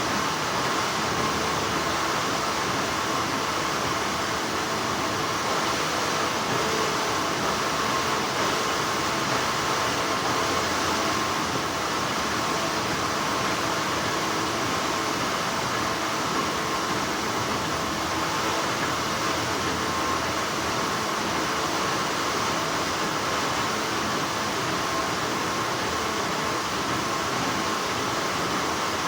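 Continuous hum of textile factory machinery: an even, unchanging noise with a faint steady tone running through it.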